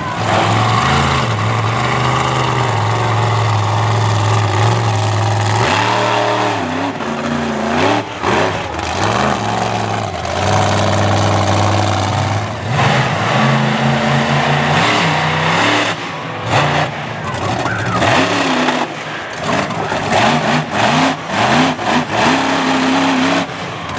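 Monster truck engine revving up and dropping back repeatedly, its pitch rising and falling during a wheelie run, with short choppy blips of throttle in the last several seconds.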